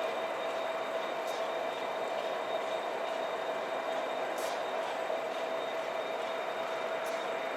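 A train rolling along the rails: a steady rushing noise with a faint, steady whine running through it and a few light ticks.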